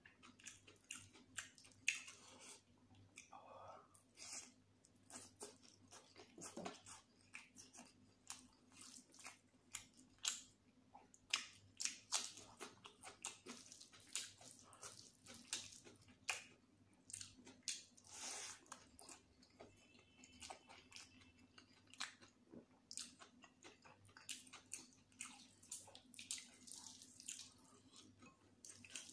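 Close-miked chewing of chicken biryani with gravy and raita: frequent short wet smacks and clicks of the mouth, with now and then a crunch.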